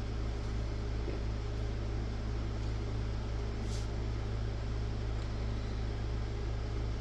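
Steady electrical hum with fan-like hiss, as from a small running appliance or motor, with one faint tick partway through.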